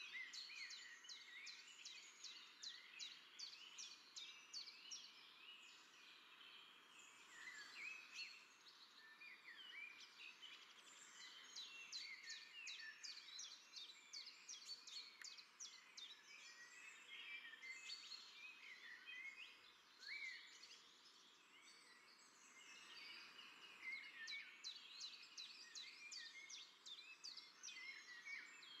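Small birds chirping and twittering in quick high notes, in dense spells of rapid chirps near the start, through the middle and near the end, over a faint steady background hiss.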